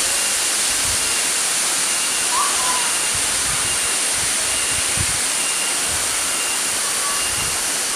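Waterfall water rushing and splashing in a steady, dense roar of noise.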